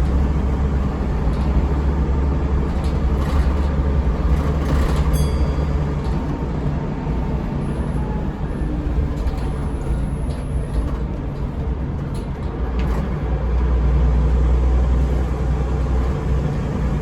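Scania L94UB city bus heard on board, its Scania DC9 diesel (a nine-litre five-cylinder) running with a steady low drone. The engine eases off through the middle and comes up again near the end as the bus pulls harder. A short sharp click with a brief ring comes about five seconds in.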